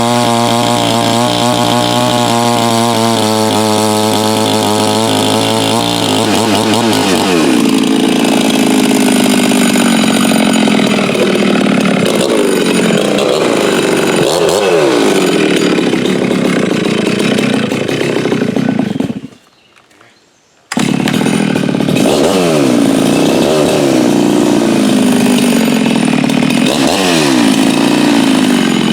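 A ported Stihl MS 660 clone (Farmertec) two-stroke chainsaw with a 36-inch bar running at a steady high pitch for the first few seconds. It then drops and swings up and down in pitch as it works in the cut. The sound breaks off for about a second and a half about two-thirds of the way through, then picks up again with the same rising and falling pitch.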